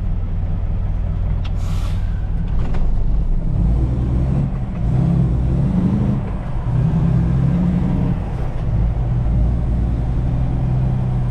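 Truck engine running, heard from inside the cab, its note rising and falling through the middle seconds. There is a short hiss about two seconds in.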